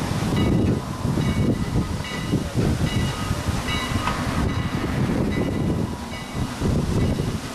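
A train hauled by a 2-6-0 Mogul steam locomotive on the move: a dense, pulsing low rumble with short metallic rings repeating about twice a second.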